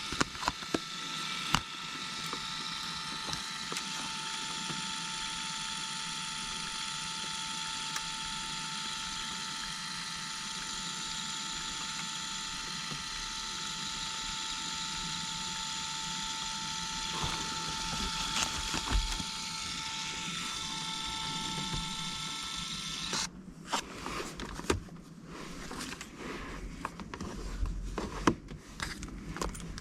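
A small geared motor whining steadily with several fixed tones, which stops suddenly about 23 seconds in; scattered clicks and rustling of handling follow.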